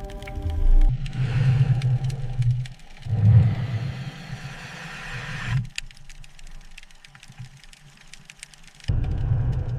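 Low mechanical rumble with a hiss over it, coming in two loud surges, then dropping to a quieter stretch with faint clicks before the rumble returns near the end.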